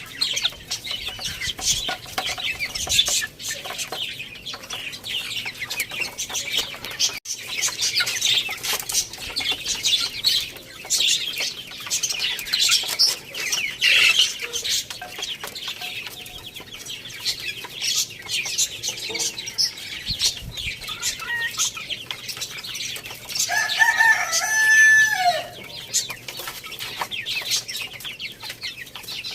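Chickens clucking and small birds chirping continuously at a high pitch. A rooster crows once, loudly, near the end.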